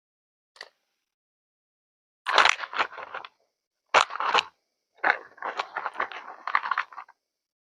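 A faint click, then three bursts of crisp crunching and crackling handling noise, the last and longest lasting about two seconds.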